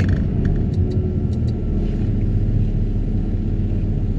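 Excavator with a vibratory pile hammer running during sheet pile extraction: a steady, loud low rumble with a few faint clicks.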